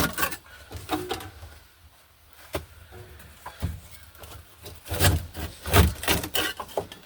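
Knocks, clicks and rubbing as a car interior panel is worked loose and lifted off, with a cluster of louder knocks about five seconds in.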